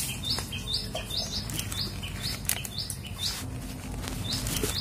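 A small bird chirping over and over, a short high chirp about twice a second, with the rustle and crinkle of banana leaves being handled and folded.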